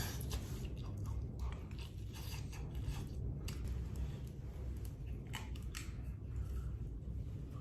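A person eating close to the microphone: chewing, with scattered small clicks and scrapes of utensils, over a low steady rumble.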